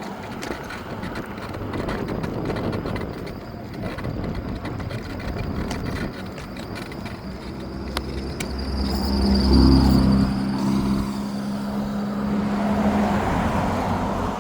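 Rushing wind and road noise of an electric scooter ride. About eight and a half seconds in, a low hum swells, is loudest a second later and fades out by about thirteen seconds.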